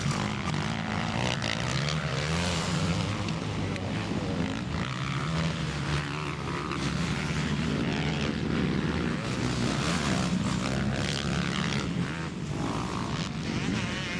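Several MX2 motocross bikes racing, their engines revving up and down in overlapping drones that rise and fall in pitch.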